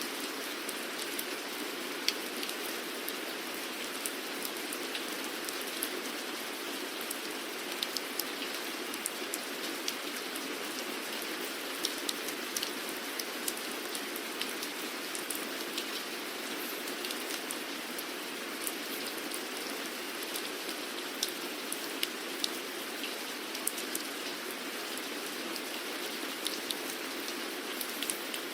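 Steady rain falling, a continuous hiss with many individual drops ticking sharply on a surface throughout.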